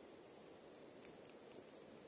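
Wood campfire crackling faintly: a few small pops over a steady low hiss.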